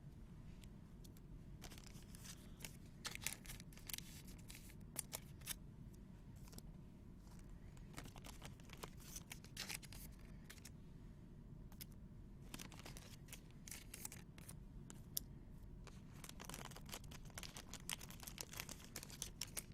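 Baseball trading cards and pack wrappers being handled at a card break. There are faint, scattered clicks and rustles in several short clusters over a low room hum, as cards are slid and flicked and packs are torn open.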